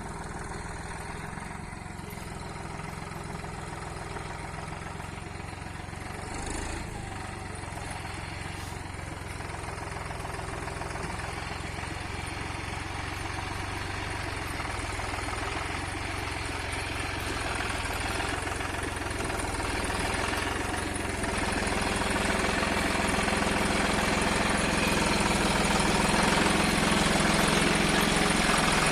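Tractor's diesel engine running steadily, getting gradually louder throughout.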